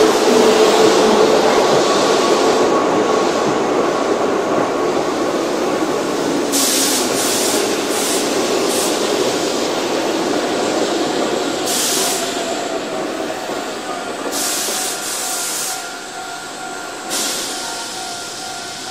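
Keihan electric train pulling away, its motor whine and wheel noise slowly fading as it recedes, with a few short hissy bursts along the way.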